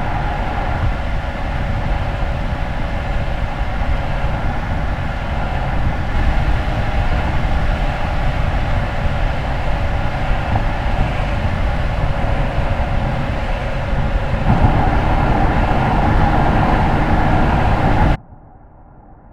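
A moving car, the 2021 Mercedes S-Class plug-in hybrid, giving a steady low road rumble with a hum of steady tones above it. The sound grows louder a few seconds before the end, then cuts off suddenly.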